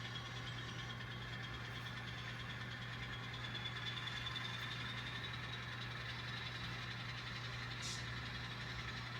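Steady diesel engine sound from an N scale model locomotive's sound decoder, played through its tiny speaker, with a brief hiss about eight seconds in.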